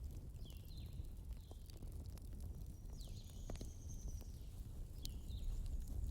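Outdoor bonfire crackling, with scattered sharp pops over a steady low rumble, while birds chirp a few short calls in the background.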